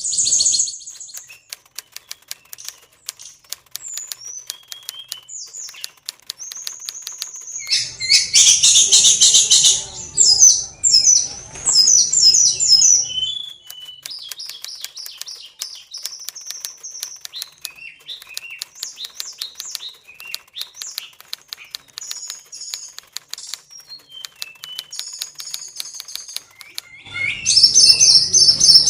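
Oriental magpie-robin (kacer) singing: loud runs of rapid whistles and trills about eight to thirteen seconds in and again near the end, with softer phrases and many short clicks in between.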